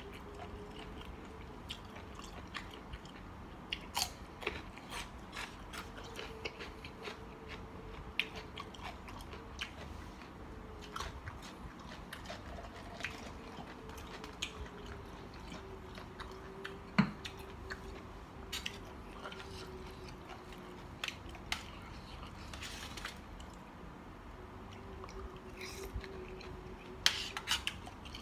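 Close-up mouth sounds of someone eating a spicy seafood salad: chewing and biting with scattered sharp, crisp clicks and crunches, the crunch of squid tentacles.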